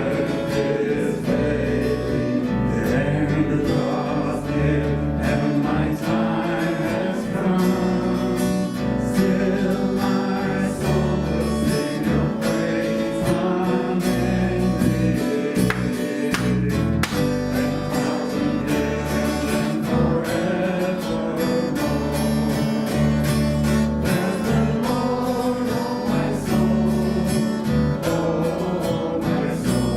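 Live worship music: a band playing with strummed acoustic guitar over a steady bass, with singing.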